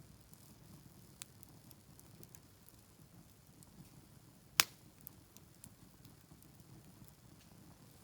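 Wood campfire crackling with sparse small pops, one sharp loud pop about halfway through.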